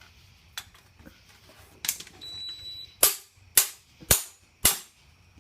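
Six sharp taps, the last four evenly about half a second apart, with a brief high steady tone a little after two seconds in.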